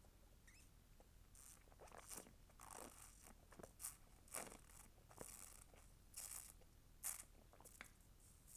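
Close-miked crinkling and crunching from McDonald's food and its paper packaging, coming in irregular short bursts.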